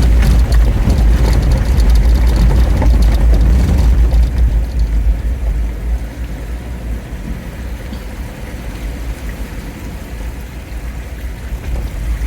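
Jeep Wrangler driving, a steady low rumble of engine and road noise with a rushing hiss over it. It is louder for the first four seconds or so, then eases off and stays steady.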